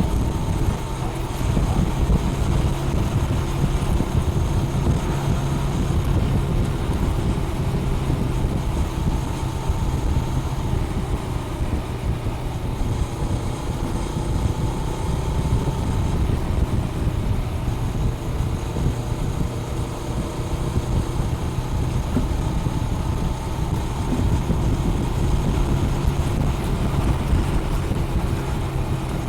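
Honda Rebel 500's parallel-twin engine through its stock exhaust, running steadily at cruising speed with small rises and falls in pitch, under heavy wind noise on the microphone.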